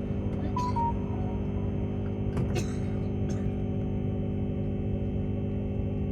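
Steady hum of several held tones inside a Tilt Train passenger carriage, with a few sharp clicks and rattles and a brief high squeak just under a second in.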